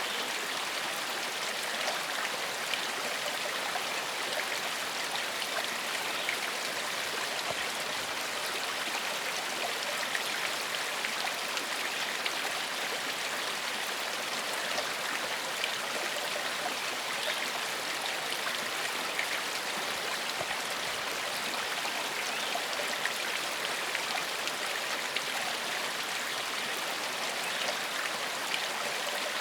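Small forest stream flowing over rocks: a steady rush of water with fine trickling and splashing.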